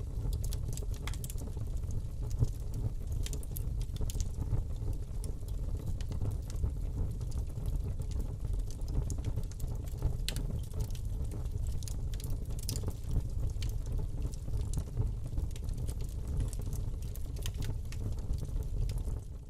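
Wood fire burning in a fireplace: a steady low rumble of flame with scattered crackles and pops from the logs, one louder pop about two and a half seconds in.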